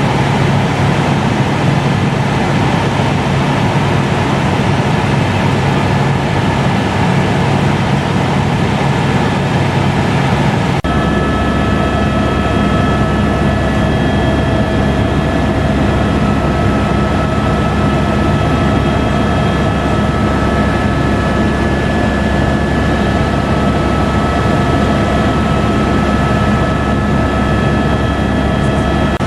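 Helicopter running steadily: a loud, even rumble with several steady whining tones. About eleven seconds in the sound changes abruptly, the deep rumble growing stronger and the set of tones shifting.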